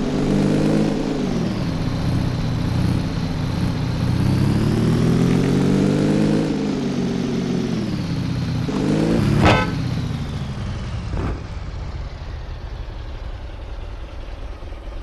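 Cafe racer motorcycle engine running under way, its revs rising and falling with the throttle. A brief sharp high-pitched sound cuts through about nine and a half seconds in, and the engine runs lower and quieter in the last few seconds.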